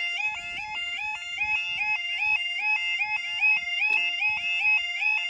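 Level crossing audible warning alarm sounding loudly: a two-tone yodel that steps rapidly between a lower and a higher pitch, several times a second. It cuts off abruptly at the end.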